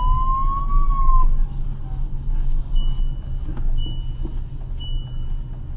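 Police siren wail rising in pitch, then breaking off about a second in, over a steady low rumble of a vehicle on the move. Three short high beeps follow about a second apart.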